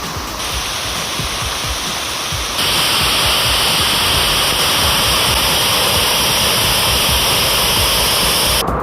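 Loud, steady rush of a large waterfall in monsoon flow, its tone jumping abruptly about half a second and two and a half seconds in, and again just before the end.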